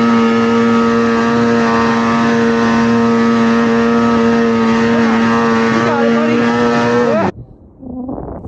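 Vintage two-stroke snowmobile engine running at a steady high speed, one constant note, which cuts off suddenly about seven seconds in, leaving quieter rushing noise.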